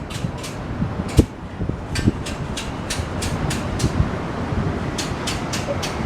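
Storm wind and rain making a steady rushing noise, with a rapid, regular ticking or rattling of about three to four ticks a second through much of it.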